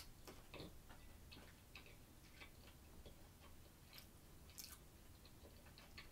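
Faint chewing: soft, irregular mouth clicks and smacks, several a second, with one sharper click at the very start.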